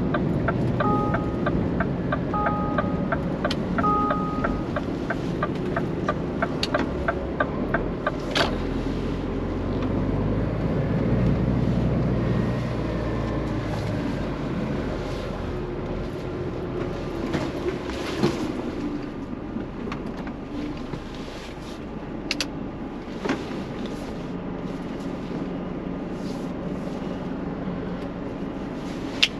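Scania truck engine running steadily, with a regular ticking for several seconds near the start, three short two-tone beeps, and a few scattered knocks later on.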